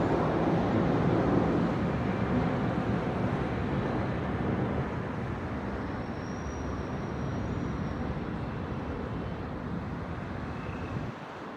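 Distant city traffic: a steady rumble that is loudest at first and slowly eases off. A faint thin high whistle comes in about six seconds in, and the low rumble drops away suddenly near the end.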